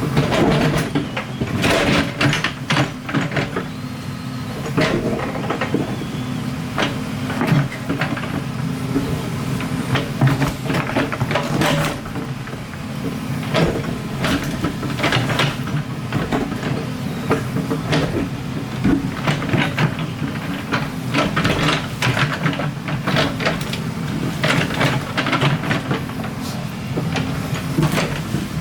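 Excavator diesel engine running steadily under load, with frequent irregular clanks and knocks as the bucket digs and scrapes through rock and soil.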